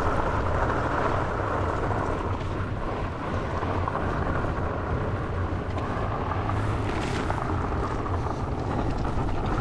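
Trek Farley fat bike rolling fast over loose gravel double track: a steady noise from its 4.8-inch Maxxis Minion tyres on the gravel, with a brief hiss about seven seconds in.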